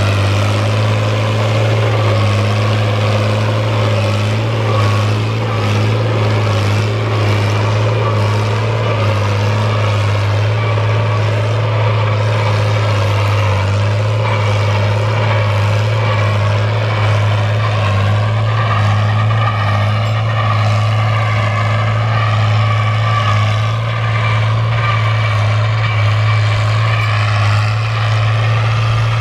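Fiat 1000 DT tractor's diesel engine running steadily while pulling a plough, with a higher tone wavering in pitch in the second half.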